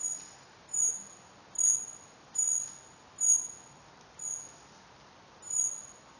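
A small bird repeating a short, very high-pitched call, seven times, roughly once a second.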